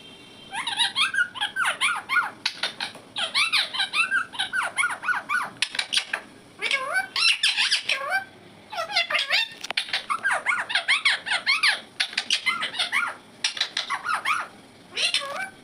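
Indian ringneck parrot giving rapid runs of high, squeaky chirps, several a second, in bursts of a few seconds with short pauses between.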